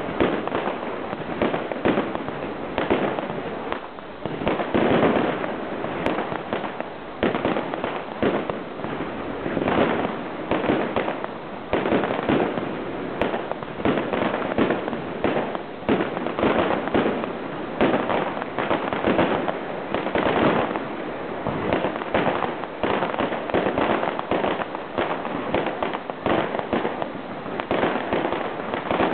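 Fireworks display: a dense, unbroken barrage of bangs and crackles, shot following shot.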